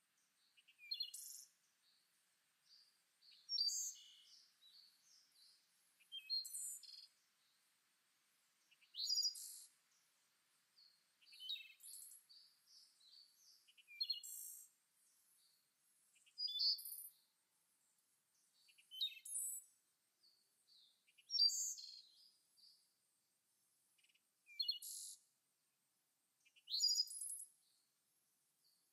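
Birdsong: short, high-pitched chirping phrases that come at even intervals of about two and a half seconds, with quiet gaps between them.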